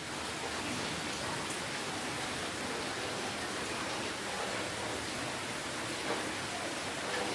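Steady rainfall, an even hiss of rain with a few faint drops standing out.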